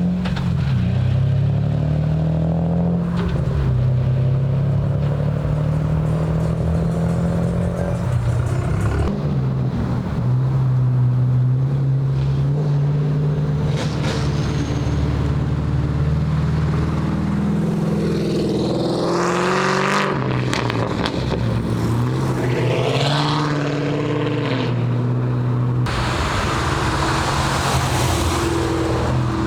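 Car engines running, with several rising revs of cars accelerating away, clustered about two-thirds of the way through and again near the end.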